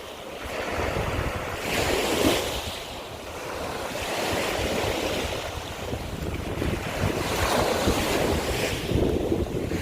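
Waves washing in over a shore of broken scallop shells, with wind buffeting the microphone. The surf swells about two seconds in and again near the end.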